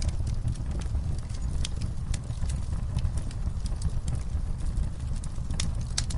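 Wood fire burning: a low steady rumble of flame with irregular sharp crackles and pops, two louder pops near the end.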